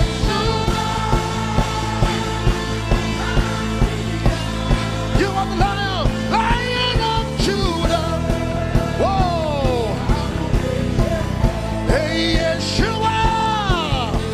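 Live worship band music with a steady beat under sustained chords, and a lead melody line that swoops and slides in pitch.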